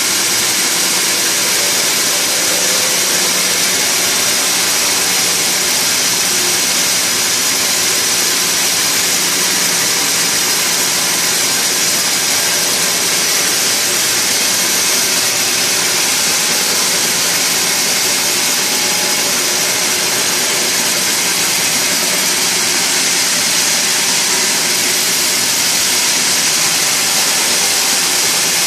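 Sawmill machinery running steadily, a loud, even hiss-like mechanical noise with a faint hum beneath and no breaks.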